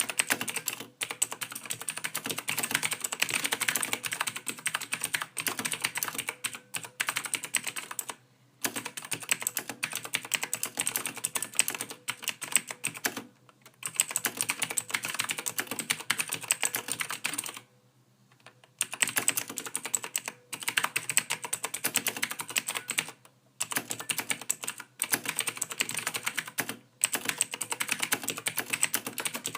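Computer keyboard typing: fast, continuous key clicks in runs of a few seconds, with brief pauses between runs, including one of about a second near the middle.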